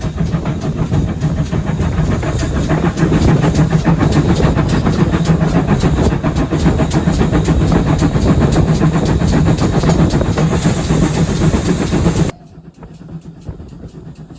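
Steam train running past, its wheels clattering over the rail joints amid a steady loud rumble. The sound drops abruptly to a much quieter level about twelve seconds in.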